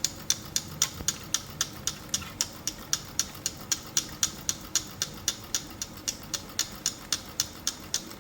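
Homemade aluminum-can Stirling engine with a CD flywheel running with its heat source applied, clicking steadily about three to four times a second.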